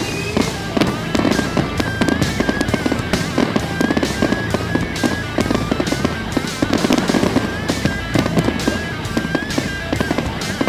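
Fireworks display with rapid, continuous cracks and bangs from fountains and crackling stars, heard over loud music.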